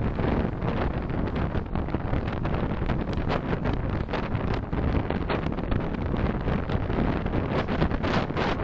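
Steady rumble of road and wind noise from a moving car, with wind buffeting and crackling on the microphone.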